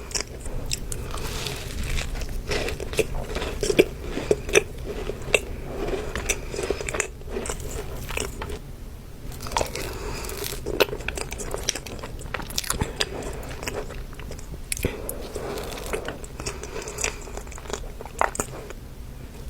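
Close-miked eating of a cookie: biting and chewing, with many small irregular crunches and mouth clicks.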